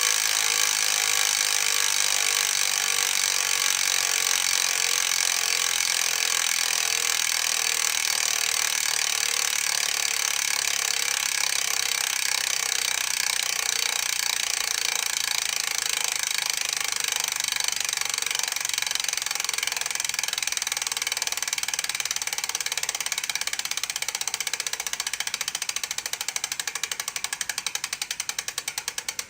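Quad Equip Pro bicycle freehub ratcheting as the wheel freewheels: a fast, even buzz of pawl clicks that gradually slows, the separate clicks becoming audible near the end as the wheel spins down.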